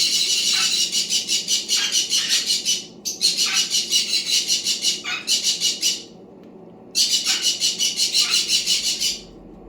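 Parrot squawking in long, harsh, rapidly pulsing bouts, with brief pauses about three seconds in and again about six seconds in.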